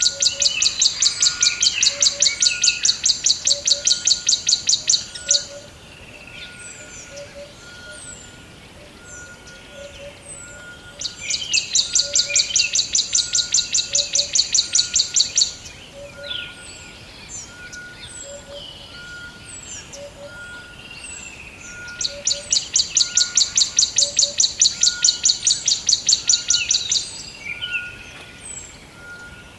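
Forest birds singing: a loud, fast-pulsing high trill of about five seconds comes three times, roughly eleven seconds apart. Between the trills are scattered short chirps and a soft note repeated about once a second.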